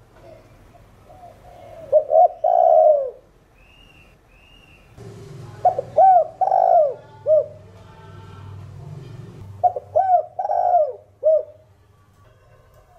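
Spotted dove cooing: three loud phrases of several short, rounded coo notes, about four seconds apart. Faint high chirps of another bird sound between them.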